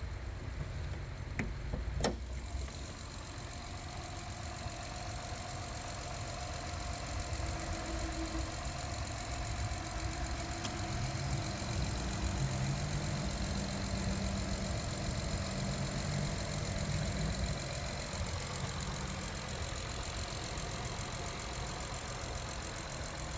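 Acura TL engine idling steadily after a cold start, with two sharp clicks about two seconds in.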